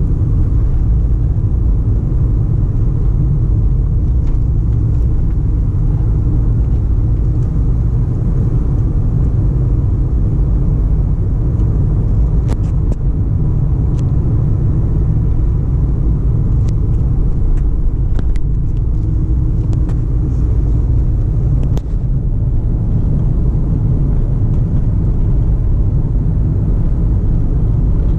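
Steady low rumble of a moving car, constant throughout, with a few faint clicks.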